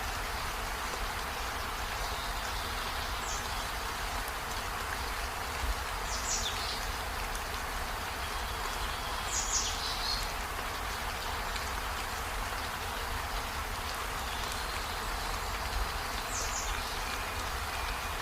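Steady rain hiss with no change in strength. A few short, high chirps that sweep downward sound over it, spaced a few seconds apart.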